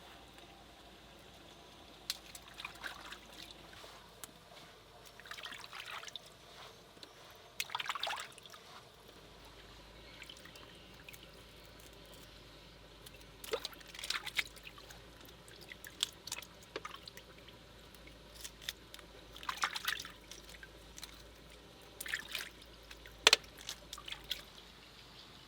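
Water splashing and dripping in short, irregular bursts, with a few sharp clicks; the sharpest click comes near the end.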